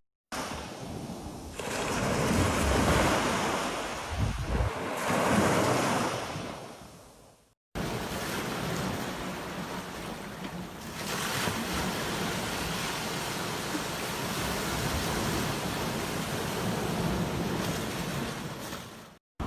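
Ocean surf: waves breaking and washing up in surging swells that fade away, then a steadier wash of surf after a brief silent cut.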